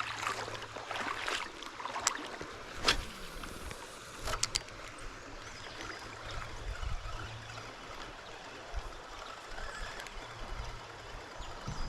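Creek water flowing steadily around a small boat, with a faint low hum that comes and goes and a few sharp knocks about two, three and four and a half seconds in.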